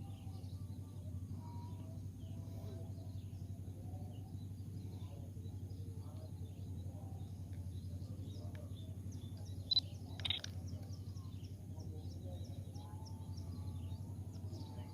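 Quiet outdoor ambience: faint bird chirps scattered over a steady low hum, with two brief louder sounds about ten seconds in.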